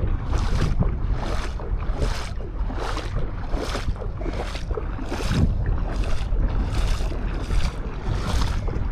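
Footsteps crunching on beach sand at a steady walking pace, about two steps a second, over a low rumble of wind on the microphone.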